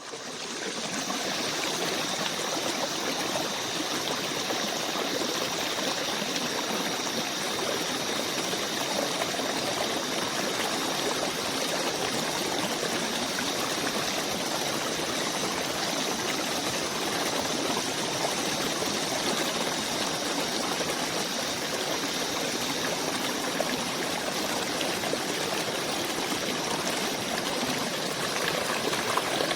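Steady rushing of a flowing stream, fading in over the first second and then holding even, with a faint steady high whine above it.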